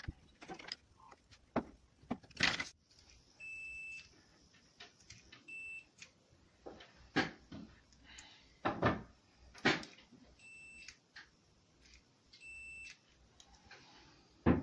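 Four short high electronic beeps, each about half a second long and evenly pitched, among a series of sharp clicks and small knocks of handling.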